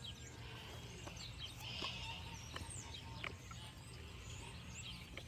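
Birds chirping, short scattered calls and sweeps, over a low steady outdoor rumble.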